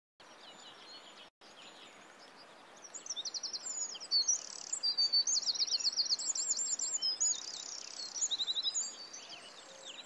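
A songbird singing rapid, high, repeated trills and chirps, loudest from about three seconds in, over a steady outdoor hiss.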